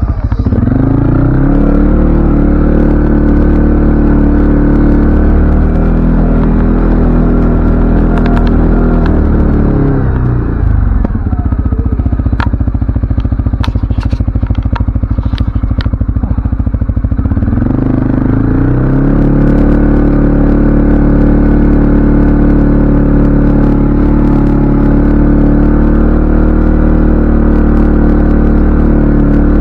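CFMoto ATV engine running while riding: it picks up speed at the start and holds there, drops back to a low steady pitch about a third of the way in with scattered clicks and knocks, then picks up again and holds steady to the end.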